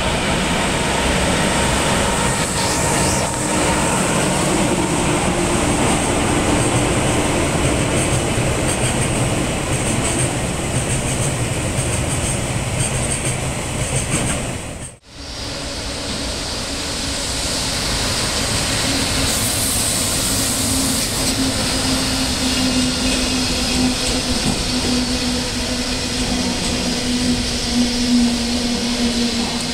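Freight trains of oil tank wagons rolling past at close range, a steady rumble of wheels on the rails. About halfway through, a hard cut switches from a loaded tank train to one of empty tank wagons, and a steady low hum runs under the second pass.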